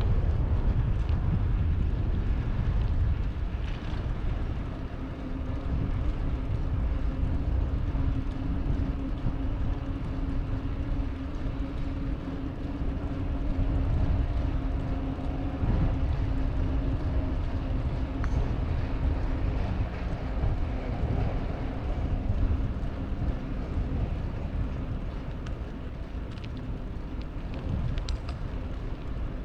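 Wind and road noise of a moving bicycle ride, a low fluctuating rumble on the microphone. A steady engine hum joins from about five seconds in and fades out a little after twenty seconds.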